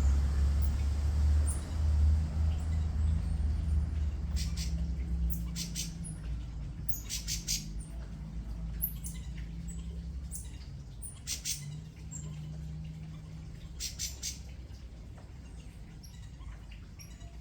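Birds chirping: short, high calls in small clusters of two to four, spaced a few seconds apart, over a low steady rumble that fades after about six seconds.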